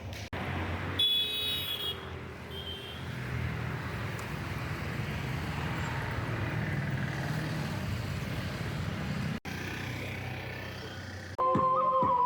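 Steady road-traffic noise with a brief high-pitched tone about a second in. Music with flute-like held notes comes in near the end.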